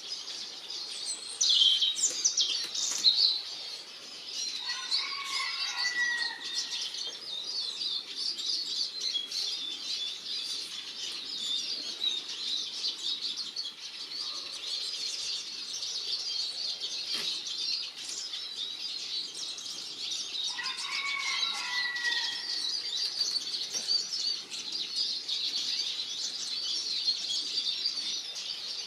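Eurasian siskins twittering and chattering continuously at a feeder, with sharper, louder calls and wing flutters in the first few seconds. A lower song phrase from another bird comes in twice.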